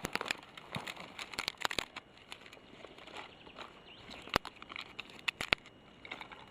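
Footsteps through dry forest litter, with twigs and sticks snapping and cracking at irregular moments, a few sharp cracks standing out about four and five and a half seconds in.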